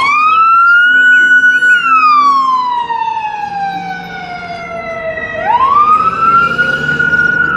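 Fire engine wail siren. It rises quickly and holds, then falls slowly for a few seconds, rises again and holds, and cuts off abruptly.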